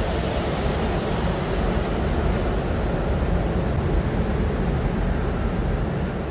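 A train running past with a steady rumble, fading slightly near the end.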